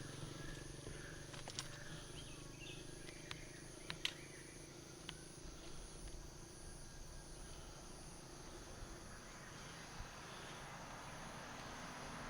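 Outdoor ambience: a faint, high, evenly pulsing insect buzz with a few short bird chirps and light clicks. A low engine hum fades out over the first few seconds, and a broader rushing noise builds toward the end.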